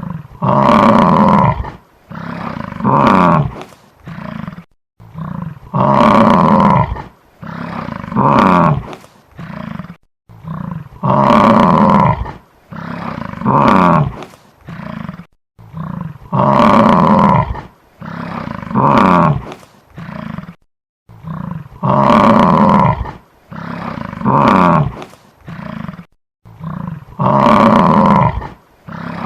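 Buffalo bellowing: one long call followed by several shorter ones, the same sequence repeating about every five seconds.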